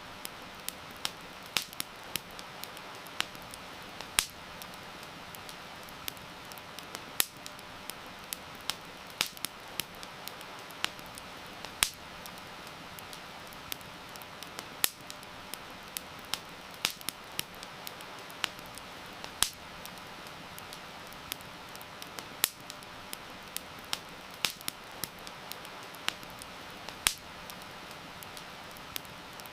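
Wood fire crackling, with sharp irregular pops several times a second, over a steady hiss of heavy rain.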